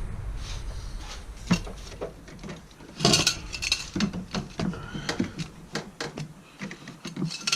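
Metal tools and parts clinking and knocking in irregular taps, with a cluster of louder knocks about three seconds in, during hand work to take off a car's air filter.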